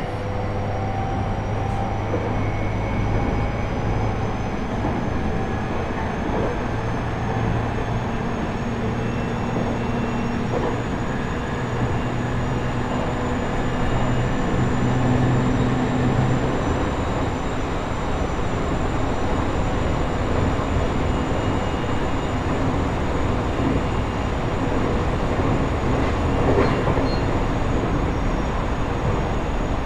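Running sound inside JR East E127-series motor car KuMoHa E127-11, a Toyo Denki GTO-VVVF unit with MT71 traction motors, under way between stations: a steady rumble of wheels on rail with faint whining tones from the drive. The gear whine of this car carries an extra tone a semitone above the usual minor-seventh pair, a known abnormal noise of this unit.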